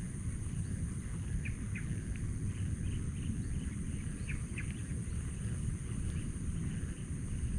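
Open-air ambience: a steady low rumble with short, high chirps from small birds, several in quick succession during the first half.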